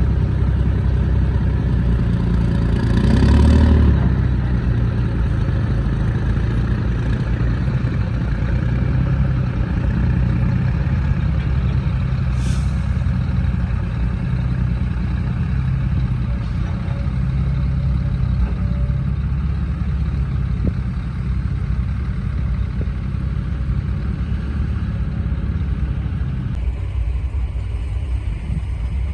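Heavy diesel truck engine running steadily with a deep, even drone. It swells louder about three seconds in, and there is a short high hiss about twelve seconds in.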